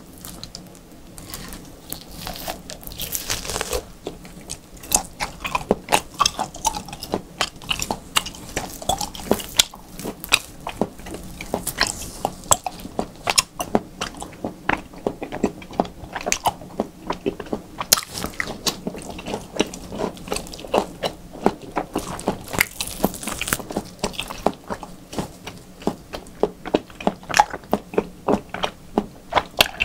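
Close-miked eating of raw beef: wet chewing and biting with many quick, irregular mouth clicks and smacks, several a second.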